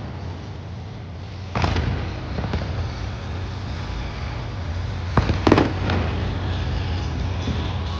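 Fireworks exploding, with a bang about one and a half seconds in and two loud bangs close together past the five-second mark, over a steady low rumble and crackle of further bursts.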